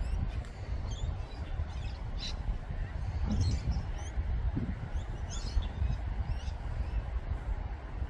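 Small birds chirping in short, scattered calls over a continuous low rumble.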